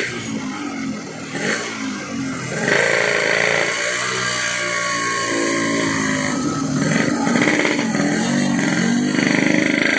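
Yamaha RX King's two-stroke single-cylinder engine running loud through a gutted bobokan exhaust while being ridden, its pitch rising and falling with the throttle and getting louder about three seconds in.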